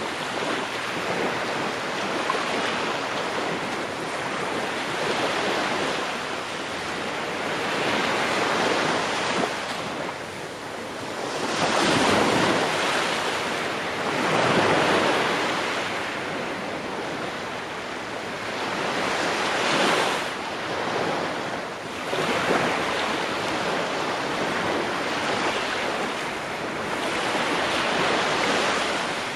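Ocean waves breaking on a shore, a continuous wash of surf that swells and recedes every few seconds, with bigger breakers about twelve, fifteen and twenty seconds in.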